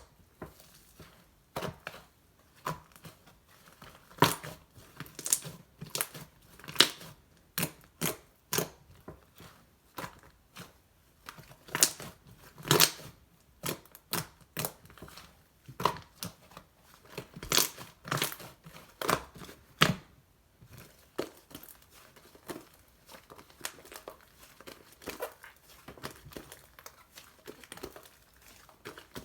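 Hands squishing, pressing and stretching slime: irregular sharp clicks and pops. They are louder and come thickly for about the first two-thirds, then turn softer.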